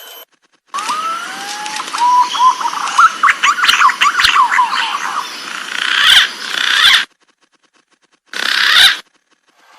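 Green pigeon (punai) song: a rising whistle leading into a rapid run of wavering whistled notes lasting about six seconds. A short separate burst comes near the end.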